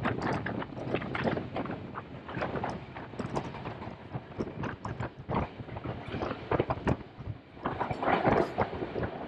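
Moving passenger train clattering, with a dense run of irregular knocks and rattles from the wheels and carriage on the track.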